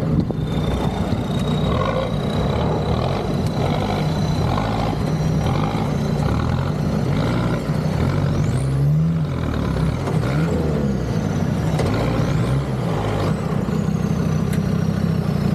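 Off-road 4x4 engine running steadily, its revs rising and falling a few times midway, with a faint high whine over it.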